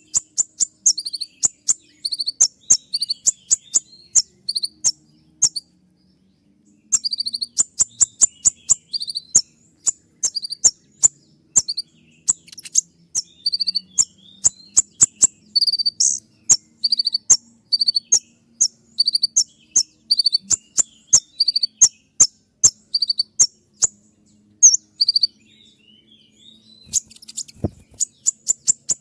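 Kolibri ninja sunbird singing in fast trains of sharp, high-pitched notes, the rapid 'shooting' (tembakan) style of song, broken by two short pauses of about a second.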